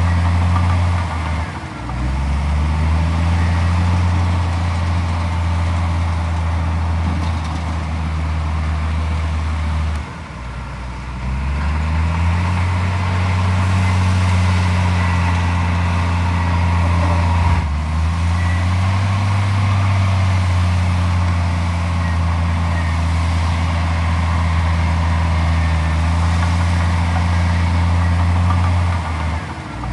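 Diesel engine of a Komatsu D41P crawler bulldozer running hard, its engine speed dipping briefly and climbing back about every eight seconds.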